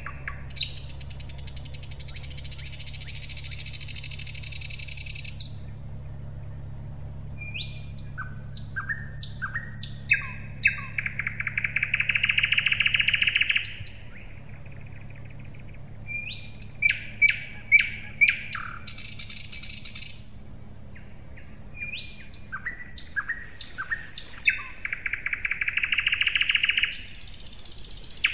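A songbird singing in repeated phrases of sharp chirps and rapid trills, with two long buzzing rattle passages about ten seconds in and again near the end, over a faint low steady hum.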